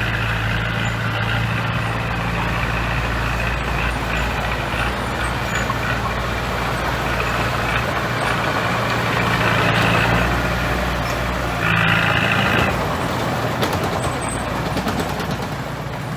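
Heavy diesel engine of a construction machine running steadily, with a brief hiss about twelve seconds in.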